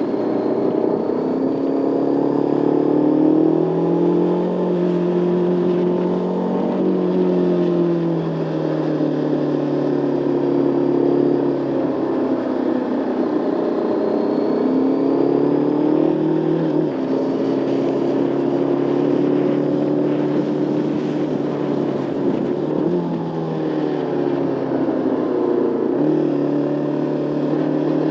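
Motorcycle engine pulling along the road, its pitch rising and falling several times, with abrupt steps as the gears change and as the throttle opens and closes.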